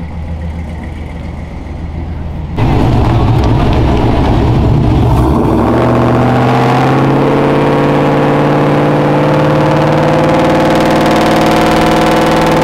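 Vehicle engine idling low, then suddenly revved hard about two and a half seconds in and held at high revs, its pitch creeping slowly upward.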